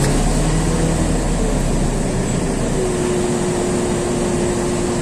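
Inside a LiAZ 6213.22 articulated city bus: the steady drone of its diesel engine and running gear while it stands at a stop. A steady low hum gives way about halfway through to a higher steady hum.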